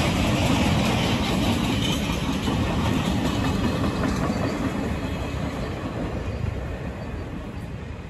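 Scrap freight train rolling along the rails, the rumble of its wagons and wheels fading steadily as it moves away.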